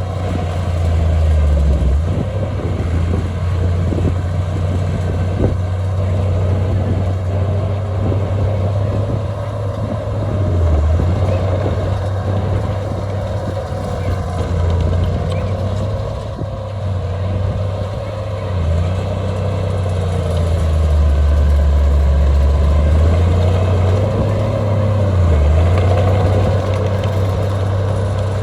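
Heavy diesel earthmoving machinery running under varying load: a deep engine rumble that eases and picks up again, briefly dipping around 11 and 25 seconds in, with a few faint knocks.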